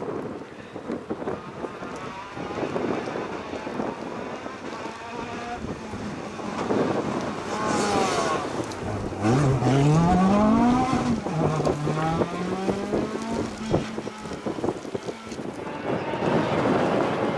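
Off-road rally car's engine accelerating hard past the microphone: the note climbs, drops once at a gear change, then climbs again. Wind noise on the microphone throughout.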